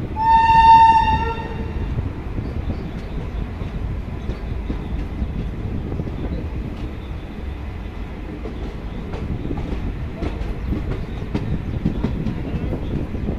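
An Indian Railways locomotive horn sounds one blast of about a second and a half at the start. The train then runs on with a steady rumble of the moving coach, and wheels click over rail joints.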